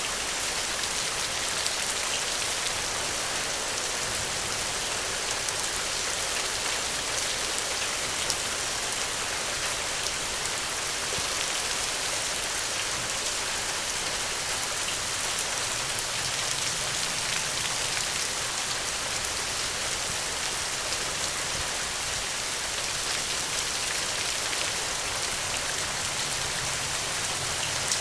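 Steady rain falling, an even hiss with fine patter of individual drops throughout.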